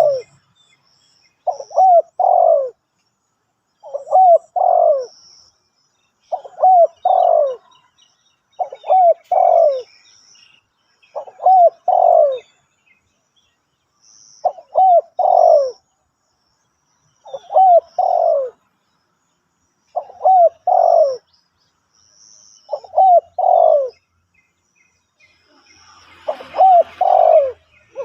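Spotted dove cooing: a short three-note coo phrase repeated about every two and a half seconds, ten times over, with faint high chirps from small birds between the phrases.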